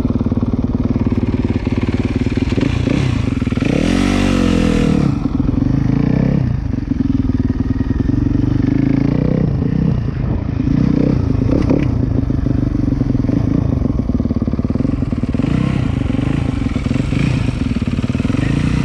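Dirt bike engines: one idles steadily close by while another, the Husaberg 450 four-stroke being tried out, revs up and down several times. The loudest rev comes about four seconds in.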